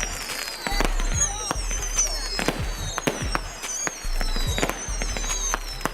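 Firework display: a rapid run of bangs and crackles, with high whistling fireworks, each whistle falling in pitch, following one after another about once a second.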